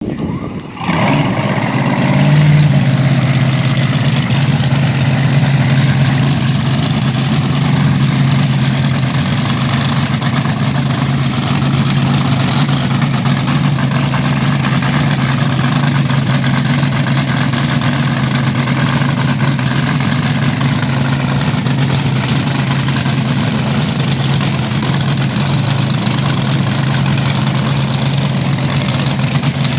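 Hot rod engine running at a steady idle, with a brief rise in revs about two seconds in.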